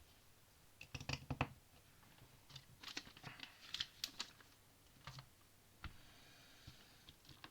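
Small plastic LEGO pieces clicking and rattling as they are picked through and handled, in clusters of quick light clicks about a second in and again around three to four seconds in, with a few single clicks later.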